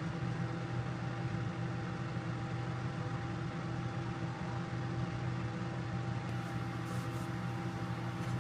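Microwave oven running with a steady hum while it heats pieces of candle wax to melt the paraffin.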